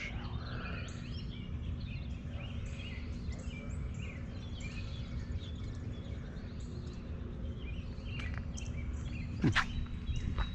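Small birds chirping and singing, many short calls throughout, over a steady low rumble of outdoor background noise. A single sharp knock comes near the end.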